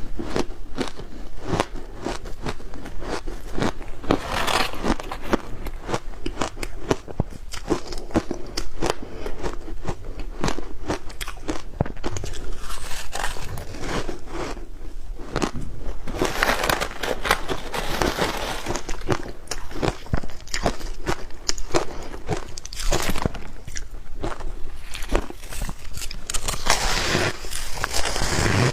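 Ice cubes thickly coated in matcha powder being bitten and chewed close to the microphone: a dense run of hard crunches and cracks, several a second, with louder bursts of crunching every so often.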